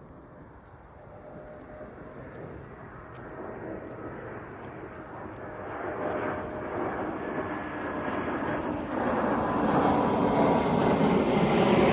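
Jet airliner approaching, its engine noise building steadily louder with a faint whine running through it.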